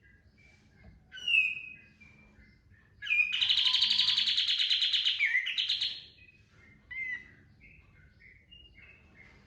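Kapas tembak songbird singing: scattered soft chirps, a short call about a second in, then a loud rapid trilled burst lasting about three seconds, followed by a few short notes.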